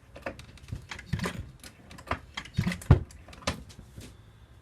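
Irregular sharp clicks and knocks of chainsaw parts and tools being handled, with one louder knock about three seconds in.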